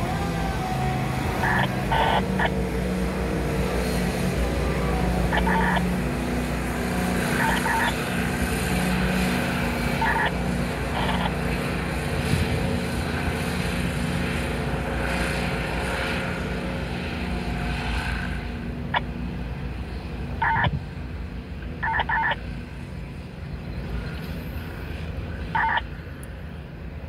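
Loaded autorack freight train rolling away, a steady low rumble that grows quieter about two-thirds of the way through. A few short higher-pitched sounds come and go over it.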